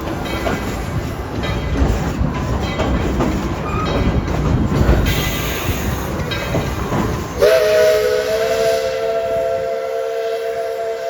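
Steam-hauled passenger cars rumbling and clattering along the track. About seven seconds in, a steam locomotive's chime whistle sounds: a chord of three tones that bends up slightly at the start and is then held.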